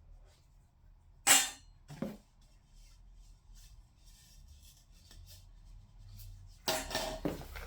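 Heater kit parts being handled: one sharp clack about a second in, a softer knock shortly after, then a run of clattering and rustling near the end.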